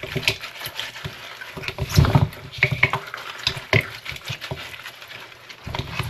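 Hands rubbing dry seasoning into raw pig feet: irregular wet squishing and patting, loudest about two seconds in.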